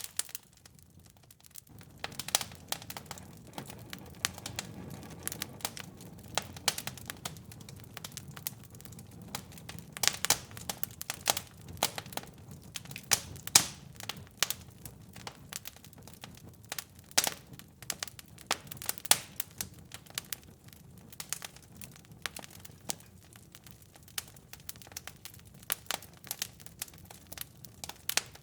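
Wood fire in a fireplace crackling and popping, with sharp pops at irregular intervals. Beneath them a low, steady rumble of burning comes in about two seconds in.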